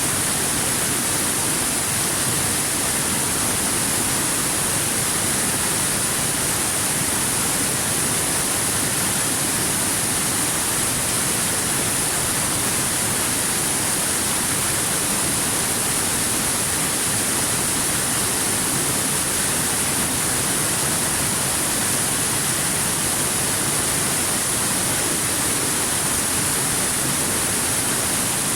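Waterfall: the steady rush of falling water, an even hiss that never changes or breaks.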